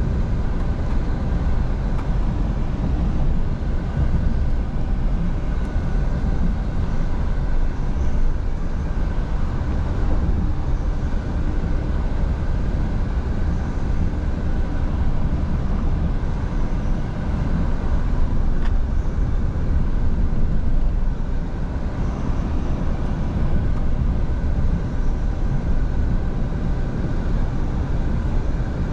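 Scania V8 truck driving at a steady speed: a constant low rumble of engine and road noise with faint steady tones above it, without gear changes or sudden events.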